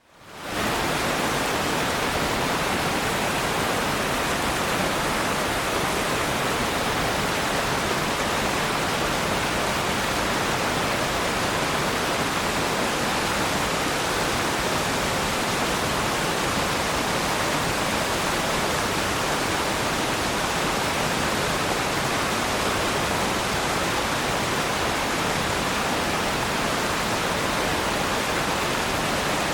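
Waterfall: a steady rush of falling water that fades in over the first half second and then holds even.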